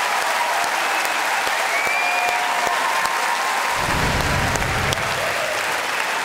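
Studio audience applauding steadily, with a few voices calling out from the crowd.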